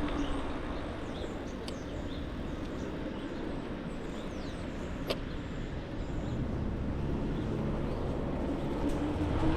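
Wind and road rumble from riding a pedal-assist e-bike, with a faint motor whine that drops in pitch early on and climbs again near the end. Faint bird chirps sound in the first half, and a sharp click comes about five seconds in.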